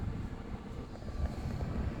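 Toyota 1NZ 1.5-litre four-cylinder petrol engine idling with a steady low rumble.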